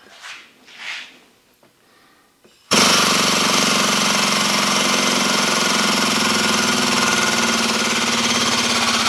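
Two short soft rustles, then about two and a half seconds in a hydraulic hose crimper's pump starts abruptly and runs loud and steady with a fast, rattling pulse, building pressure to crimp a fitting onto a hose.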